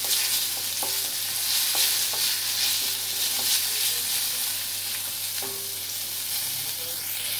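Green chillies, curry leaves and a dried red chilli sizzling in hot mustard oil in a kadai. A wooden spatula stirs them and knocks against the pan now and then.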